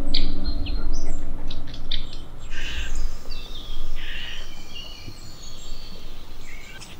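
Wild birds chirping and calling in short, high bursts, several overlapping, with sustained music notes fading out in the first few seconds.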